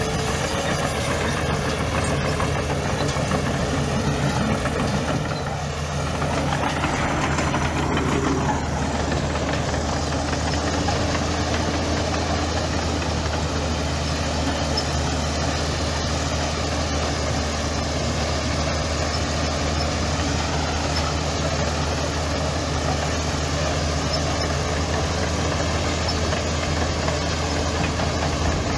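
Heavy diesel engine of earthmoving machinery running steadily at a low, even rumble, with a brief dip and pick-up in revs about six seconds in.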